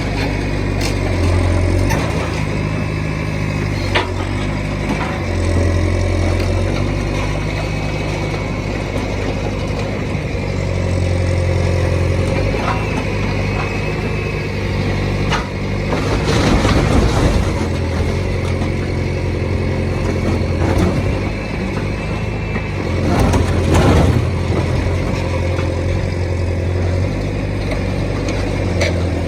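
A heavy machine's engine running and revving up and down, with two louder, noisier surges about sixteen and twenty-three seconds in.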